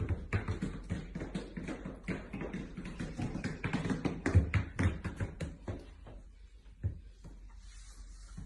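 A rapid, irregular run of taps and knocks that thins out after about five seconds, with one last knock near the end, over a steady low hum.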